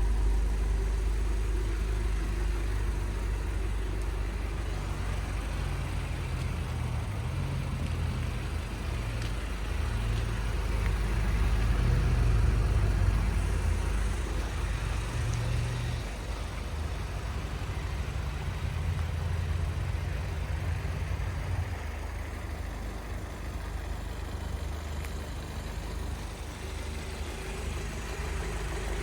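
VW Golf MK6 GTI Edition 35 turbocharged four-cylinder engine and decat exhaust pulling under way, its note rising and falling with the throttle. It swells to its loudest about twelve seconds in, then eases back around sixteen seconds and again around twenty-two seconds.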